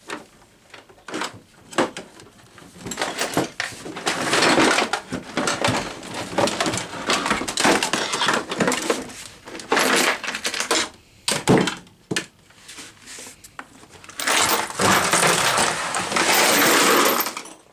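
Clattering, knocking and scraping as a desoldering station is picked up and moved around on a bench, with irregular clicks and two longer stretches of rubbing and rattling.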